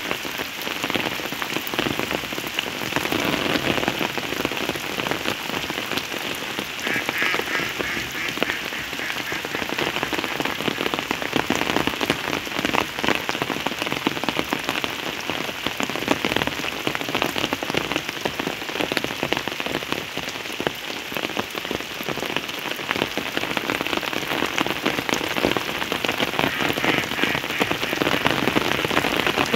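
Steady rain falling on surfaces, a dense hiss of many individual drop hits at an even level. A short rapid pulsed call sounds briefly about a quarter of the way in and again near the end.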